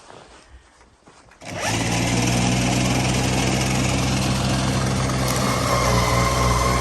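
SnowJoe 100-volt 24-inch dual-stage electric snowblower cuts in suddenly about a second and a half in after a quiet stretch, then runs steadily with a low hum and a whine from the motor and auger.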